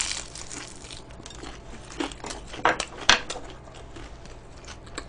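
Close-up eating sounds: crispy fried chicken being bitten, torn and chewed, with scattered crackles and clicks, the loudest near the start and again around two to three seconds in.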